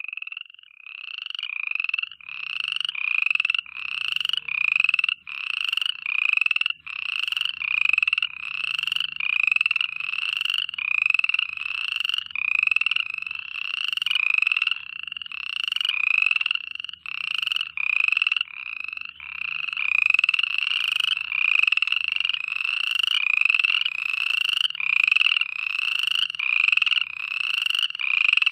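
Frogs calling in a steady, repeating rhythm, about one and a half calls a second, each call rising slightly in pitch.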